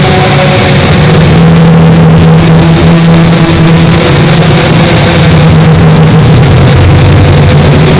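Boat motor running steadily and loudly, with a constant low engine hum and noise over it, as of a boat under way.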